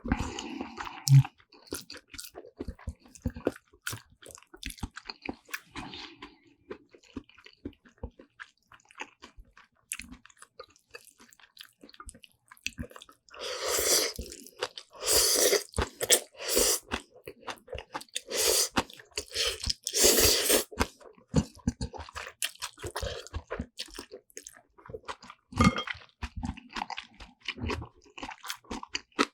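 Close-miked eating: steady chewing of black bean noodles and side dishes, with crunches and wet mouth clicks. A louder, busier run of chewing comes about halfway through.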